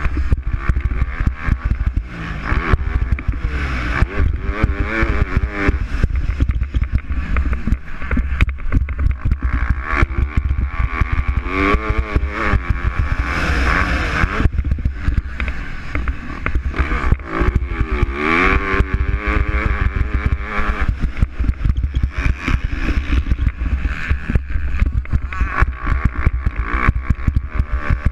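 MX2 motocross bikes racing on the track, their engines revving up and down as riders pass, with swells of engine pitch several seconds apart over a constant low rumble and crackle.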